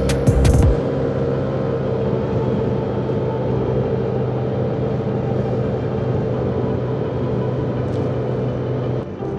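Steady running noise of a Yamaha NVX 155 scooter on the road, the single-cylinder engine holding an even speed under a haze of wind and road noise. The sound drops and changes near the end.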